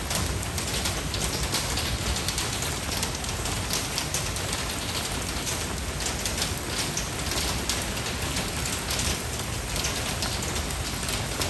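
Steady rain falling and pattering on surfaces, with many small drops striking close by.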